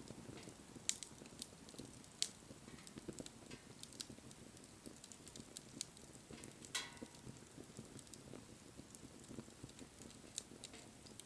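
Wood bonfire crackling, with irregular sharp pops over the low rustle of the flames; one pop about seven seconds in trails off in a short hiss.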